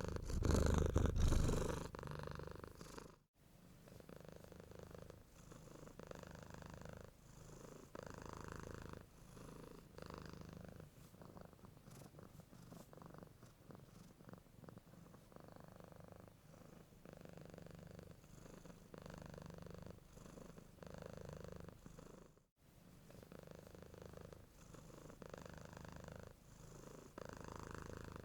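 Domestic cat purring steadily and closely, the purr swelling and easing with each breath in and out. It is louder for the first three seconds and drops out for an instant twice, where the recording is cut.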